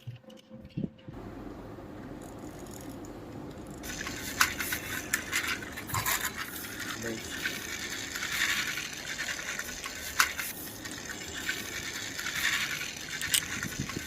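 Yellow and green plastic toy truck being run along a surface, its wheels and body rolling and rattling, with a few sharp clicks and knocks.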